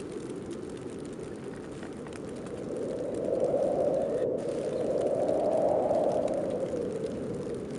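Snowstorm wind blowing steadily, swelling into a stronger gust about three seconds in that eases near the end.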